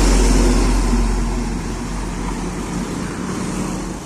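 Hino 500 truck passing close by: diesel engine running with tyre and road noise, loudest in the first second and then easing off as it goes by.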